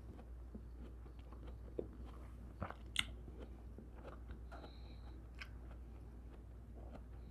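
Close-miked chewing of soft cantaloupe melon: quiet wet mouth sounds with small scattered clicks, the loudest a sharp click about three seconds in, over a low steady hum.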